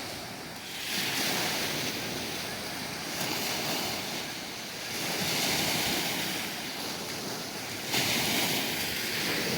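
Waves washing on a lakeshore: a steady rush of surf that swells louder a few times, about a second in, around five seconds, and near the end, with wind gusting on the microphone.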